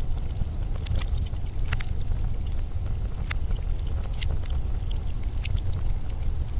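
Steady deep rumble of blizzard wind, with sharp, irregular crackles scattered over it.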